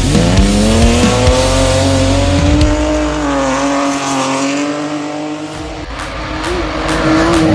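BMW E36 M3 rally car's straight-six engine revving up and held at high revs under full throttle, its pitch rising in the first second and then staying nearly steady. Sharp clicks join it over the last second or so.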